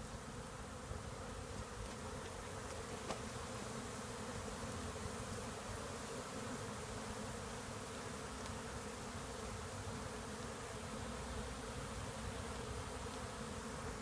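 A freshly captured honeybee swarm buzzing steadily around the box it was shaken into, with many bees still in the air outside it.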